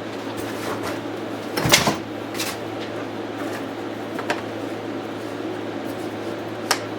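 A steady low mechanical hum with a few short clicks and clunks of objects being handled; the loudest is a brief clatter just under two seconds in, with a sharp click near the end.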